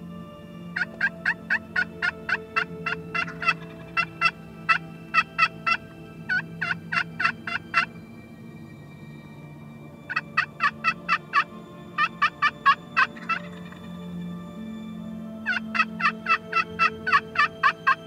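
Wild turkey yelping: six runs of short, evenly spaced yelps, about five a second, each run lasting one to three seconds, with a faint steady hum beneath.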